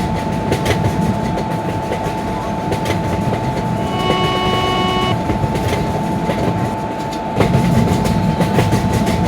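Train passing at speed: a continuous rumble of wheels on rail with rapid clicks over the rail joints, getting louder about seven seconds in. A brief pitched tone sounds for about a second a little after four seconds in.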